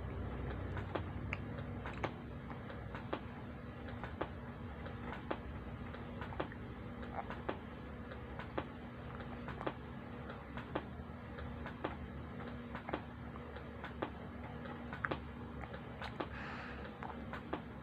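Sharp ticking about once a second, very regular, over a steady low hum, with a brief hiss near the end.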